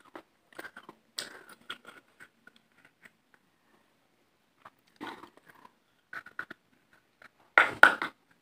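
Close-miked eating sounds: wet chewing, lip smacks and mouth clicks on soft food. There is a pause about halfway through, then a louder burst of biting and chewing near the end.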